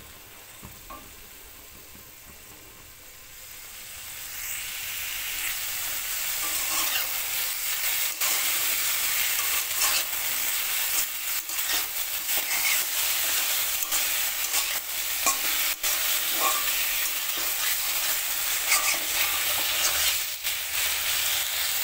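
Broccoli florets frying in mustard oil in a kadai over medium heat, sizzling, with a metal spatula stirring and scraping them. The sizzle is faint at first and grows louder about four seconds in, then runs steadily with scattered clicks of the spatula against the pan.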